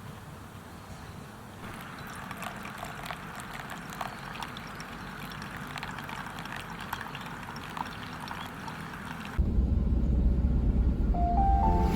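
Campfire crackling: a steady hiss with many small irregular snaps. About nine seconds in, music with a heavy bass starts abruptly and takes over.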